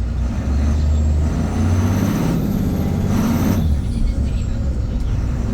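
VDL Pulsar bus running on the move, its engine a steady low hum that steps up in pitch about a second in. Over it a faint high whistle rises, holds for a couple of seconds, and falls away.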